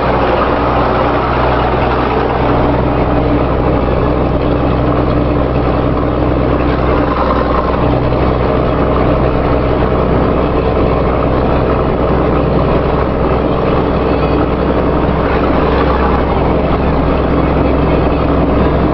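Vehicle engine idling steadily with a loud, rumbling exhaust note.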